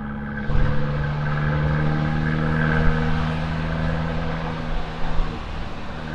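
Abarth 595C's 1.4-litre turbocharged four-cylinder heard through an Akrapovic exhaust, pulling at a steady engine speed. About half a second in, the throttle opens and the exhaust note gets louder and rougher, then holds steady until a brief break in the note a little after five seconds.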